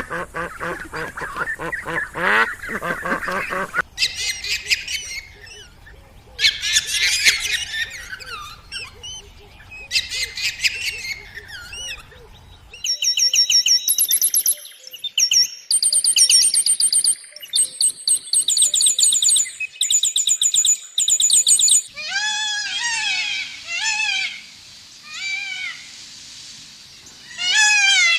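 Bird calls in several changing kinds: a honking call at the start, then scattered chirps, then rapid high whistled notes repeated in runs, and finally a series of short calls that rise and fall in pitch.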